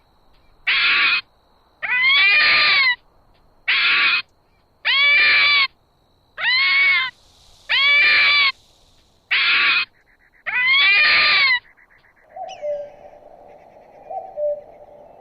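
An animal giving a series of loud, shrill calls, about eight in a row, each rising and then dipping slightly in pitch. About twelve seconds in they stop, and a fainter, lower call begins.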